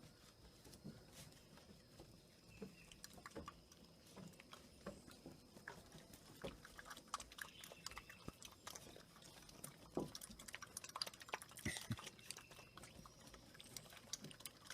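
Near silence, broken by faint, scattered small clicks and soft taps that come more often in the second half, over a faint steady high whine.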